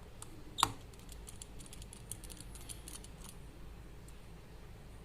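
Small screwdriver clicking and ticking against the screws and frame of a Vivo V5 smartphone as it is taken apart: one sharper click about half a second in, then a run of faint, quick ticks.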